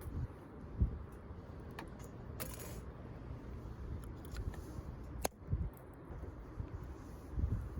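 A few sharp pops and a brief hiss from a wood campfire, over a low rumble of wind on the microphone.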